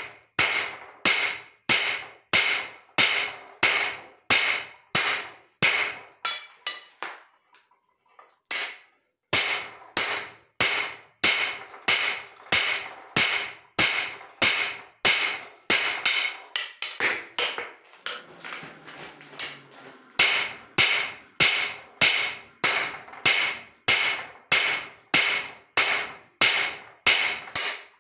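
Hand hammer striking leaf-spring steel on an anvil in a steady rhythm of one to two blows a second, each blow ringing briefly. The hammering breaks off twice for a second or two, about a third of the way in and again past the middle.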